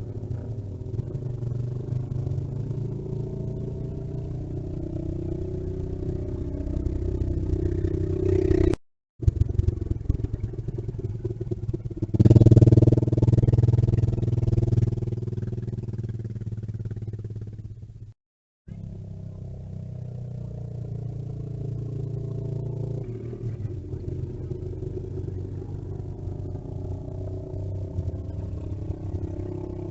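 A motor vehicle engine running steadily, cutting out abruptly twice and briefly getting louder about twelve seconds in.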